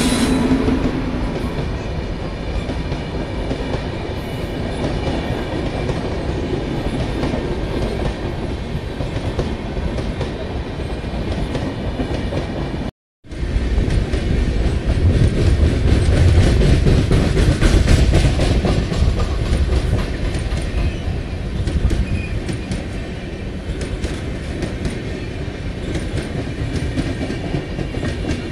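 Indian Railways passenger coaches rolling past at speed: a steady rumble of wheels on rail with rapid clatter over the rail joints and a faint high ringing. After a sudden brief dropout about 13 seconds in, a second train's coaches pass with a heavier low rumble that swells for a few seconds, then eases.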